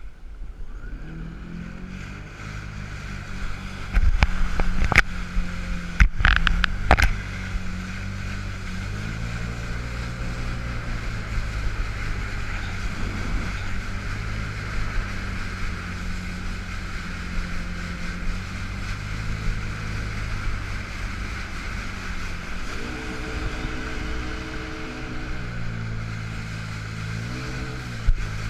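2005 Yamaha FX Cruiser H.O. jet ski engine running under way, its pitch rising and falling as the throttle changes. The engine is stuck in its reduced-power Lo mode. There are several loud thumps about four to seven seconds in, over steady wind and water noise.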